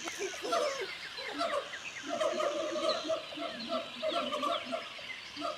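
Monkey chattering: a rapid run of short, choppy calls, over a faint jungle background of chirps and a steady high hiss.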